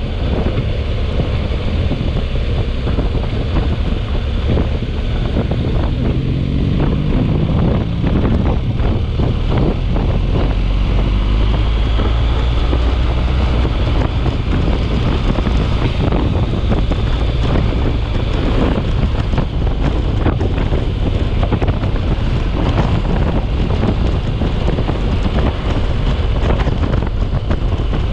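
Storm wind buffeting the microphone: a loud, continuous rush with heavy low rumbling gusts.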